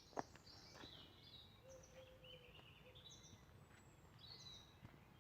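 Faint birdsong: scattered short high chirps and whistles from several birds over a quiet outdoor background, with one sharp click just after the start.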